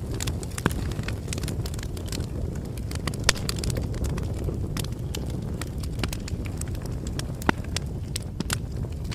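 Bonfire crackling: irregular sharp pops and snaps, several a second, over a steady low rumble of burning, with a louder pop about three seconds in.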